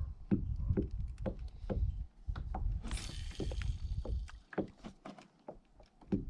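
Kayak on the water: a quick run of short knocks and splashes from the paddle and hull over a low rumble.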